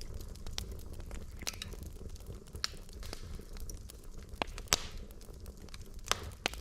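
Wood logs burning in a fireplace over a steady low rumble, with irregular sharp crackles and pops. The loudest pop comes just under five seconds in and another about a second later.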